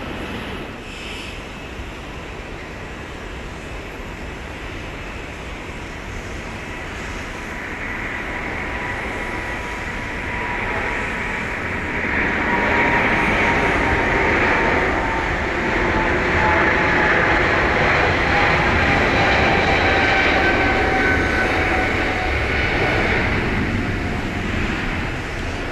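Boeing 777-300ER's twin GE90-115B turbofans at takeoff thrust. The rumble builds as the jet rolls and passes, with a whine that slowly falls in pitch, then eases off near the end.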